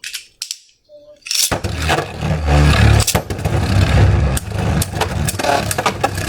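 Beyblade spinning tops launched about a second and a half in, then whirring and clashing in a plastic stadium. It is a loud, steady whirring rumble dotted with many sharp clicks from the hits.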